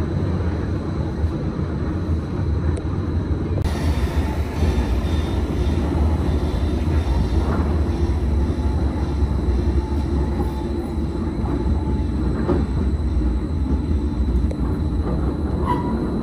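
Gornergrat Railway electric rack train heard from inside the carriage as it rolls along: a steady low rumble of motors and wheels on the rails, turning brighter and hissier about four seconds in, with a few faint squeaks.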